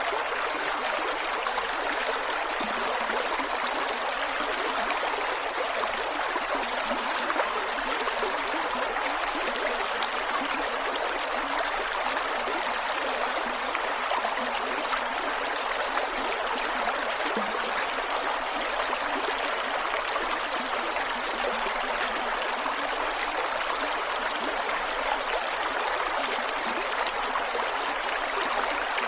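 Creek water flowing over rocks, a steady rushing with small gurgles and trickles.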